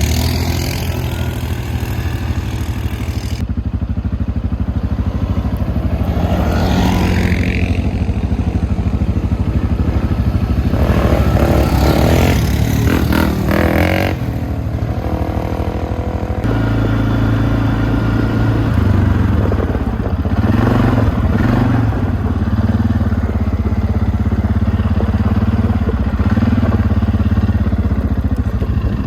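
Off-road vehicle engine running under way on a trail, its pitch rising and falling with the throttle, with rattling and scraping over the ground; its note shifts about halfway through.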